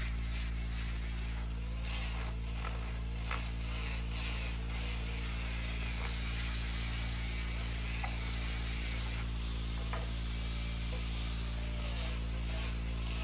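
Electric motor of a woodworking power tool running steadily with an even low hum, a few light clicks on top.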